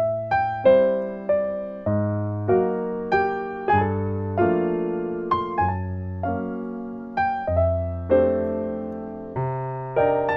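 Background music: soft piano playing gentle chords and a slow melody, about two notes a second.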